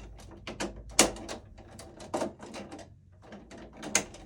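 Irregular clicks and knocks of stiff electrical cable and wire being handled against a metal breaker panel, with sharp knocks about a second in and near the end.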